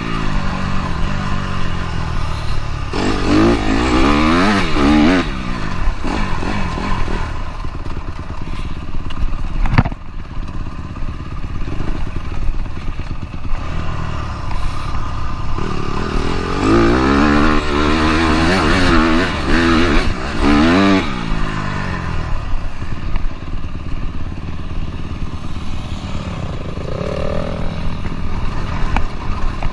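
Dirt bike engine being ridden, its pitch rising and falling through the gears in two spells of hard revving, a few seconds in and again past the middle, with steadier running between them. A single sharp knock about a third of the way through.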